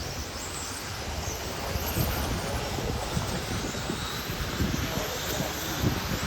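Radio-controlled touring and Le Mans-style model cars lapping a track, their motors giving faint high whines that rise and fall as they speed up and pass, over a steady hiss of running noise and irregular low buffeting on the microphone.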